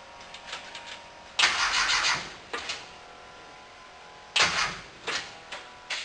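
A rebuilt 2332 VW air-cooled engine being started, coughing into life in two short bursts about three seconds apart, with smaller pops between, without settling into a steady idle.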